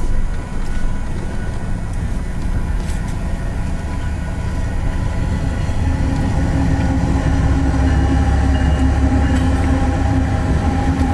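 BNSF freight train rolling past: a steady low rumble that grows louder about halfway through, with a steady hum joining it.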